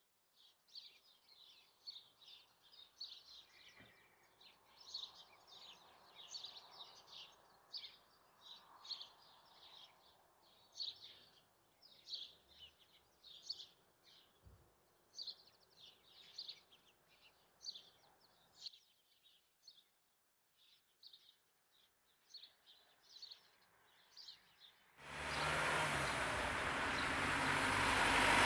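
Birds singing, short high chirps repeated every second or so. About 25 s in, a loud diesel engine sound starts suddenly and drowns them out: the M62 locomotive running.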